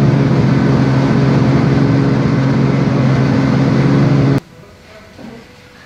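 Turbocharged drift car engine running on a chassis dyno, held at steady revs with an unchanging pitch. The sound cuts off suddenly a little over four seconds in, leaving a much quieter background.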